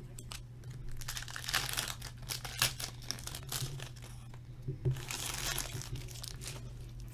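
Plastic wrapping on hockey card packs being torn and crinkled by hand, in two bouts: one about a second in and another near five seconds.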